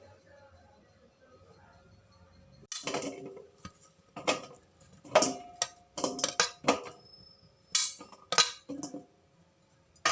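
Dishes and cutlery clattering and clinking: a run of sharp knocks, some with a short ring, starting a few seconds in.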